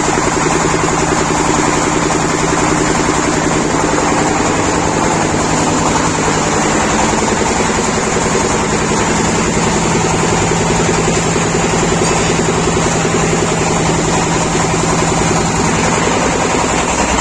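Pipe-bending machine's motor running with a steady drone that holds level throughout.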